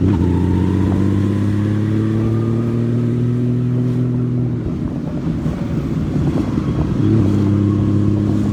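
Honda Valkyrie 1500cc flat-six motorcycle engine running under way, its pitch creeping up steadily. About halfway through it eases off and goes rough for a couple of seconds, then settles back into a steady pull.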